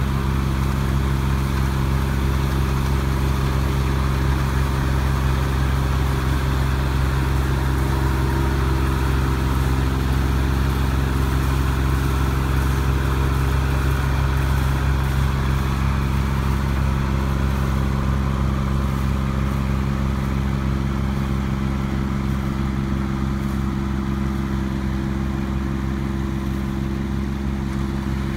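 Rice combine harvester running steadily: a constant engine hum under the noise of the harvesting machinery, easing slightly near the end.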